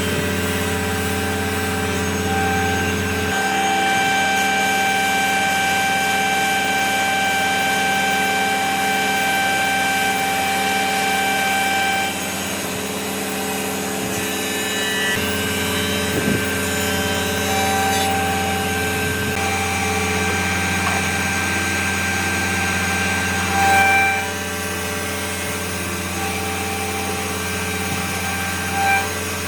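A woodworking power tool running steadily with a whine, working on wood. Its tone changes several times as the load shifts, with two short louder moments near the end.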